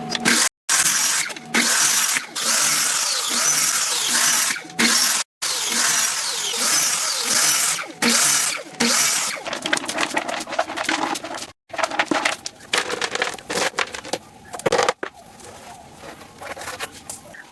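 Woodworking tool noise in several short cut-together clips: a few seconds of loud, steady cutting noise, then a run of quick knocks and scrapes that grows quieter near the end.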